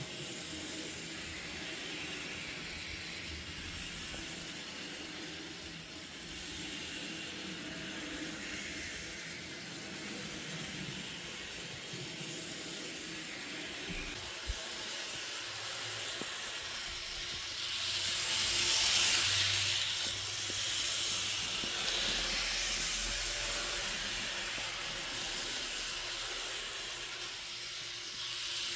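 Train running with steady steam hissing. There is a sharp click about halfway through, and a louder burst of hiss a few seconds later.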